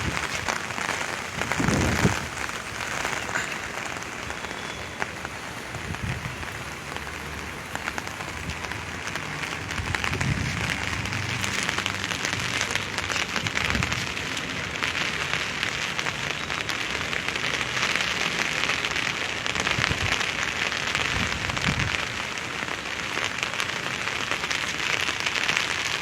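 Heavy monsoon rain falling steadily, with dense close drops pattering on an umbrella held over the microphone. A few low dull thumps come and go.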